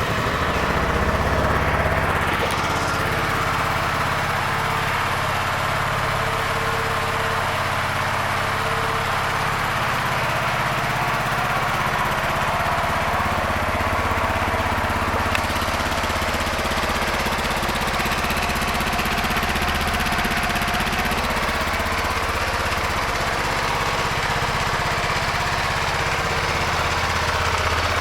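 2012 Suzuki S40 Boulevard's 650 single-cylinder engine idling steadily just after being started, a little louder for the first couple of seconds before it settles.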